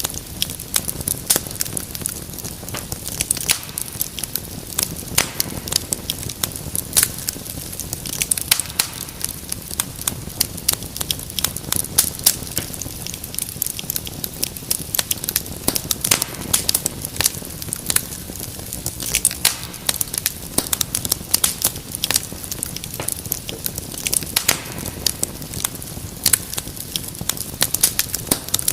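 Wood fire crackling and popping: many sharp irregular pops over a soft steady rush of flames.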